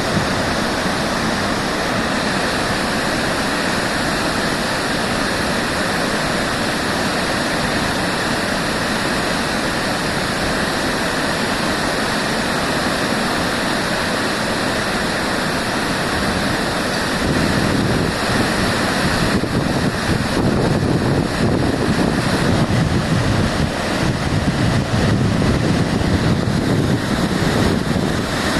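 Waterfall, a large volume of water falling and crashing: a loud, steady rush. About two-thirds of the way in the low rumble grows heavier and rougher.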